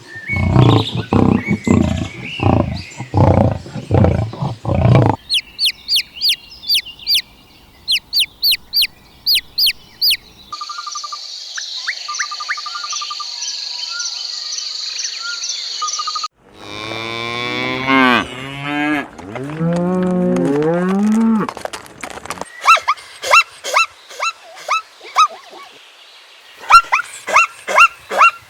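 A run of different animal calls: repeated low grunting pulses at first, then rapid high chirps, and a cow mooing in long calls that bend up and down about two-thirds of the way through, followed by more high chirps.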